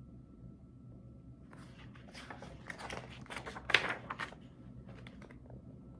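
Paper rustling and crinkling as a picture-book page is turned, a few seconds of irregular rustles loudest in the middle.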